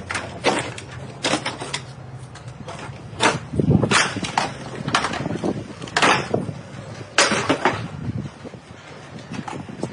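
Irregular knocks and clanks of car parts being worked loose and handled during dismantling, with a low machine hum under them that swells around the loudest clatter a few seconds in.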